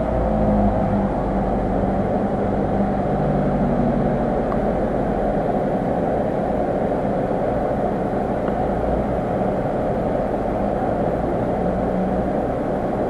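Car engine idling steadily: an even, unbroken mechanical hum with a low rumble underneath.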